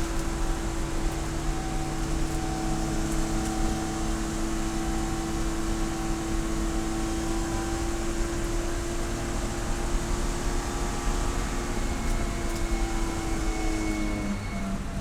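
Race car engine heard from on board, holding a steady speed with a constant note over wind and road noise. About a second before the end the engine note breaks and drops to a lower pitch as the revs fall.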